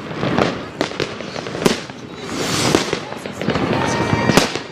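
New Year's fireworks going off: many sharp bangs and crackles in quick succession, with a steady whistle near the end.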